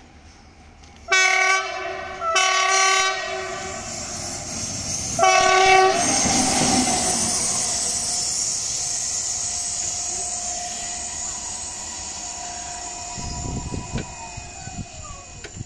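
Locomotive horn sounded three times in short blasts as a greeting, followed by the steady rushing rumble of the train passing, slowly fading.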